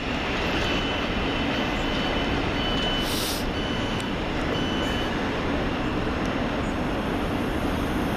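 Thameslink Class 700 electric multiple unit running past, a steady rail rumble and hiss with faint thin whining tones, and a short hiss about three seconds in.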